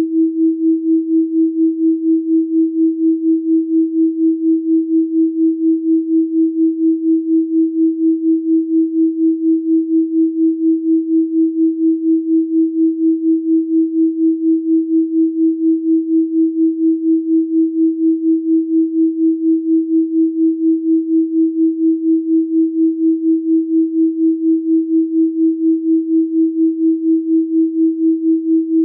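A steady, electronically generated pure tone of 324 Hz, held unbroken. Its loudness pulses evenly a few times a second.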